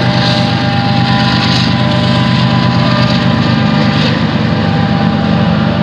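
Freight train's diesel locomotives running with a steady low drone, with wind noise on the microphone.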